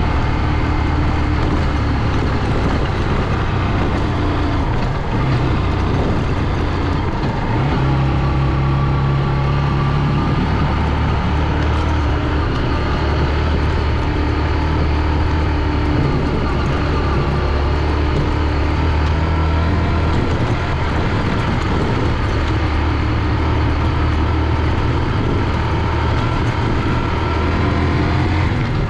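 Single-cylinder four-stroke engine of a Honda CG 125 motorcycle running under way, its note shifting up and down a few times as the speed changes.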